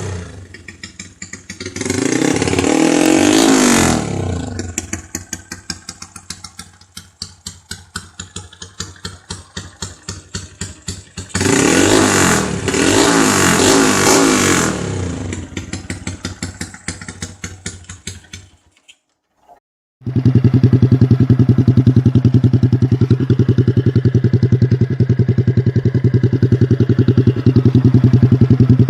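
Motorcycle with a modified 'Nu Lam Luk Ka' style exhaust pipe, revved up twice with a rough, pulsing idle between. It drops out briefly near two-thirds of the way through, then a motorcycle engine runs steadily and loudly at a held speed.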